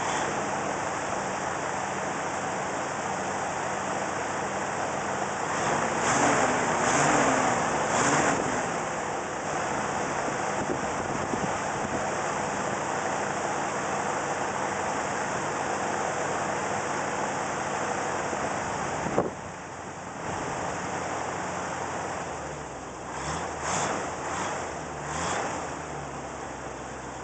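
1975 Ford L-700 truck's 361 gasoline V8, just cold-started, running steadily. The throttle is blipped a few times about six seconds in and again near the end. A sharp click comes just past the middle, and after it the engine runs a little quieter.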